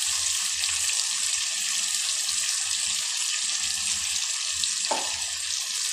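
Onion-tomato masala frying in oil in a steel kadai: a steady sizzling hiss.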